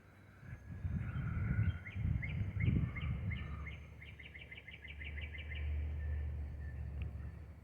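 Gusty wind buffeting the microphone in low rumbling surges, with a bird singing a fast run of repeated chirps, about six a second, through the middle.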